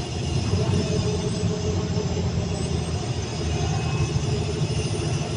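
Caterpillar 320D2 L excavator's diesel engine running steadily under hydraulic pump load, with a faint high whine over a low drone. The engine speed is pulled down a little, less than 200 RPM, which is almost within spec after the pump's constant-horsepower flow adjustment.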